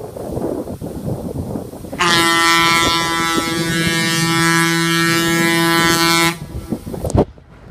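Diesel locomotive air horn sounding one long blast of several tones at once, starting about two seconds in and cutting off after about four seconds.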